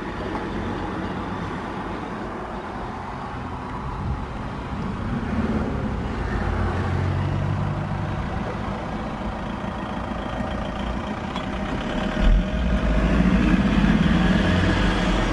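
Audi RS Q3 2.5-litre five-cylinder petrol engine starting about twelve seconds in with a short sharp burst, then running at a raised start-up idle, louder and fuller than before. A steady vehicle rumble comes before the start.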